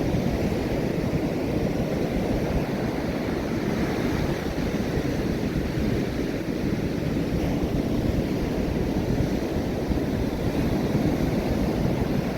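Steady rushing noise of ocean surf mixed with wind buffeting the microphone, heaviest in the low end, with no distinct events.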